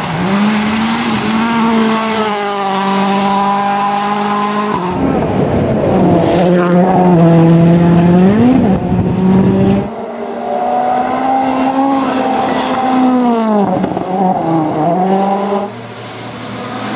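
Rally cars driven flat out, their engines held at high revs with the pitch climbing and then dipping at gear changes. Several short clips are cut together, so the sound changes abruptly about 5, 10 and 16 seconds in.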